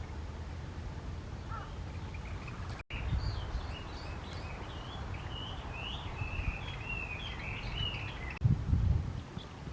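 Small wild birds chirping and twittering in a quick run of short high notes over a low background rumble. A brief low thump near the end.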